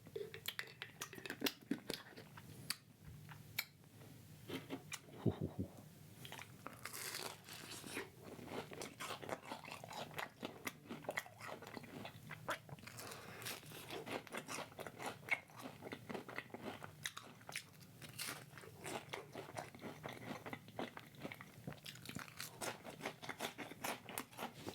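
Close-miked eating: a person biting and chewing crunchy food, with many small irregular crunches throughout.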